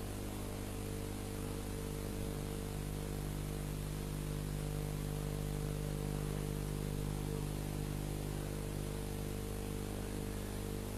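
Steady electrical hum with a layer of hiss from the sound system, with no voice.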